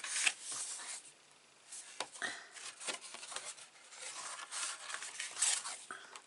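Card stock being handled and creased along its score lines: irregular paper rustling, rubbing and scraping, with a few light taps and clicks and a short lull a little after the first second.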